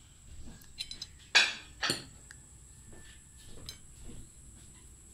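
Dishes and utensils clinking: two sharp clinks close together about a second and a half in, with a few lighter taps before and after.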